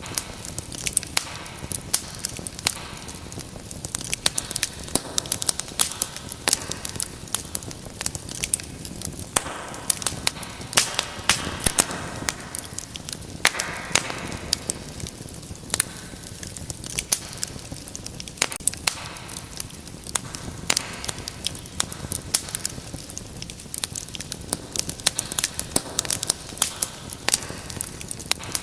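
Wood fire crackling in a fireplace: many sharp, irregular pops and snaps over a soft steady hiss of flame.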